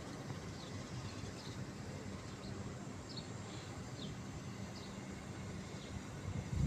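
Faint, short, high bird chirps, one every second or so, over a steady low background rumble.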